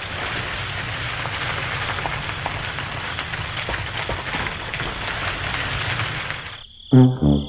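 Gritty scraping of sand and rocks shoved along by a toy tractor, over a steady low hum from its small motor, with scattered small clicks. Near the end the scraping stops and a brassy music note begins.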